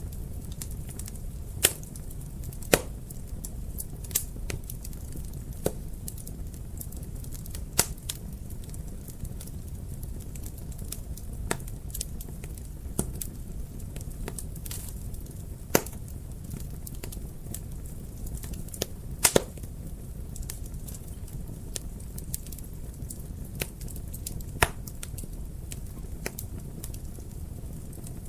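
Fire crackling in a fireplace: irregular sharp pops and snaps, a few of them louder, over a low steady rumble of the flames.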